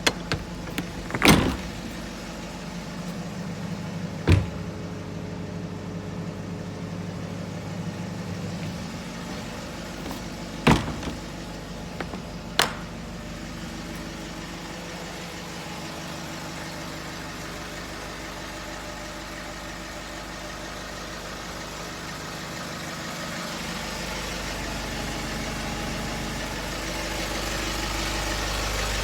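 Nissan Atlas truck engine idling steadily, with a few sharp clunks in the first half, and the engine getting louder and deeper over the last few seconds.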